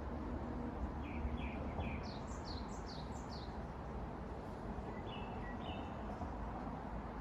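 Songbirds chirping: three short chirps about a second in, a quick run of four or five high notes sliding downward around two to three seconds, and a few short notes later on. Beneath them runs a steady low rumble of distant traffic.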